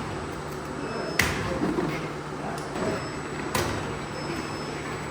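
Factory machinery running with a steady hum, with two sharp metallic knocks, one about a second in and another a little past halfway.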